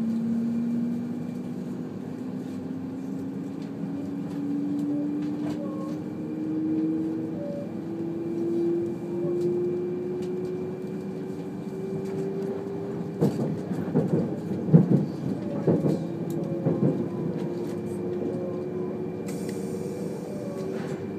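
Cabin sound of a 200 series Shinkansen accelerating away from a station: the traction motor whine climbs slowly and steadily in pitch over the running rumble. A run of loud clattering knocks comes about two-thirds of the way through.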